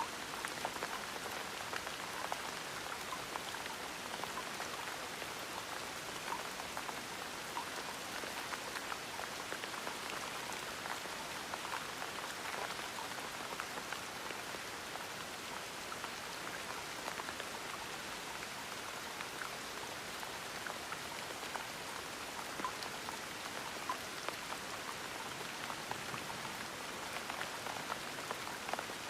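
Steady gentle rain, a soft hiss of falling rain with many small scattered drop ticks.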